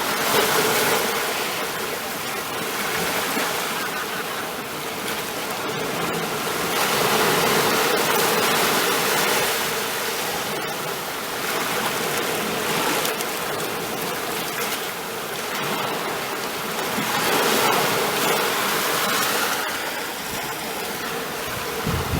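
Ocean surf: waves washing in, a steady rush that swells and ebbs every four to five seconds.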